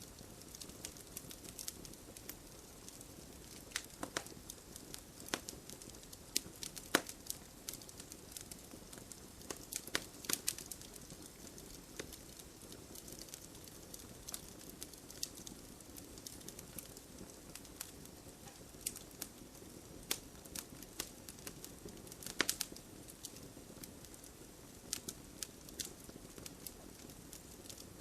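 Campfire crackling: irregular sharp pops and snaps, clustered in places, over the low steady hiss of the flames.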